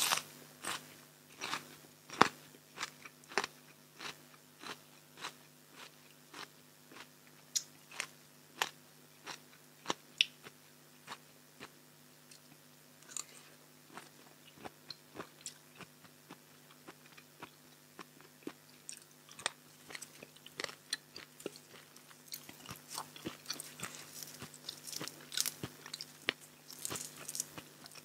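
Close-miked eating: crisp crunching bites and chewing of raw vegetables and raw-shrimp salad, about two crunches a second, growing into a denser crackle near the end. A faint steady low hum sits underneath.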